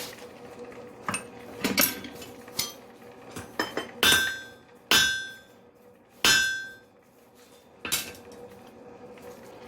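Hammer striking a quenched wrought iron test piece to snap it for a grain check: several lighter taps, then three hard blows with a metallic ring, and one more blow near the end.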